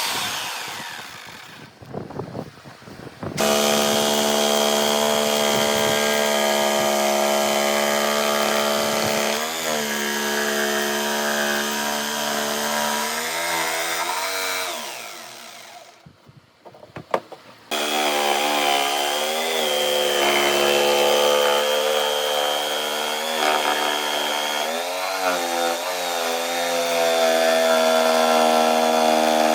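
A power tool's motor runs on wood with a steady pitched tone that dips briefly now and then as it bites. It falls silent about two seconds in and again about halfway through, each time starting up again within a couple of seconds.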